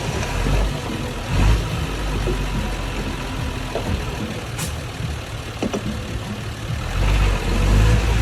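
Mini bulldozer's diesel engine running steadily, swelling louder about a second and a half in and again near the end, with a few scattered knocks.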